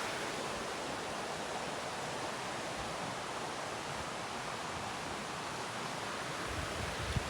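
Steady rush of a cascading mountain creek, with a few low bumps near the end.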